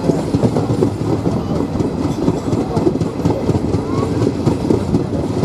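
Passenger train running, its wheels clattering steadily over the rails with a dense rumble of knocks.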